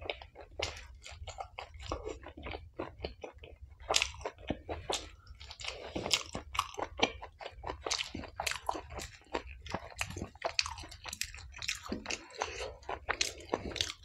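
A person chewing mouthfuls of chole bhature close to the microphone: a quick, dense, uneven run of wet smacking clicks.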